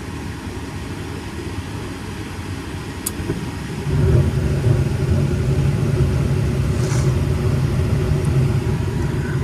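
Goodman gas furnace running its ignition cycle: a steady mechanical hum, a sharp click about three seconds in, then the burners light about four seconds in with a sudden rise to a steady low rumble that holds, the flame staying lit.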